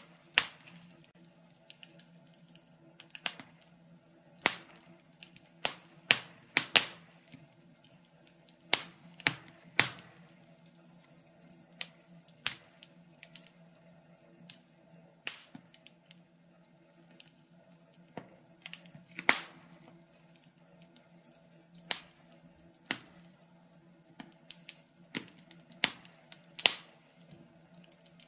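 Wood fire in a fireplace crackling: irregular sharp pops and snaps, sometimes several close together, over a faint steady low hum.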